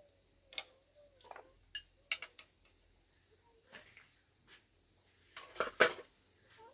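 Steady high-pitched drone of crickets or other insects, with scattered sharp clicks and knocks of eating utensils and dishes during a meal, the loudest a quick cluster near the end.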